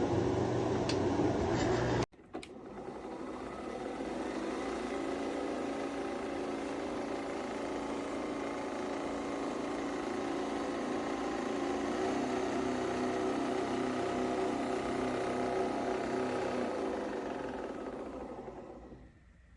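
Nespresso Vertuo Next coffee machine running, a steady motor and pump hum. It breaks off sharply about two seconds in, starts again and then fades out near the end.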